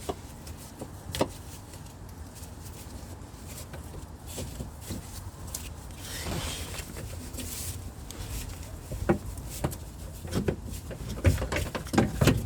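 Scattered metal clicks and knocks from hand tools and parts being worked under a car, over a low background rumble. A brief rushing noise comes about six seconds in, and the knocks come thicker and louder in the last few seconds.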